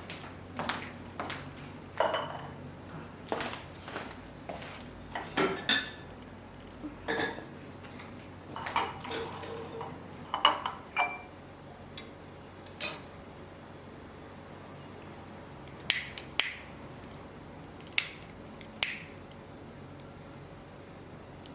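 Dishes and cutlery clinking and knocking: irregular clatter for about twelve seconds, then a few sharper single clinks near the end.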